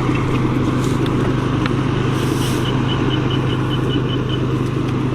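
A small engine running steadily at an even speed. About two seconds in, a quick series of about ten high chirps sounds over it.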